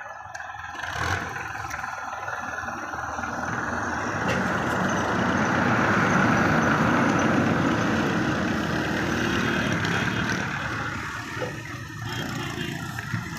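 Tractor engine working hard under heavy load as it tries to pull a stuck, loaded trolley free. It grows louder toward the middle, then eases off for a moment near the end before picking up again.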